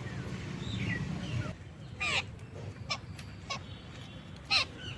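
Birds calling: two louder, sharply falling calls about two and a half seconds apart, with fainter calls and a few short clicks around them. A low rumble underlies the first second and a half.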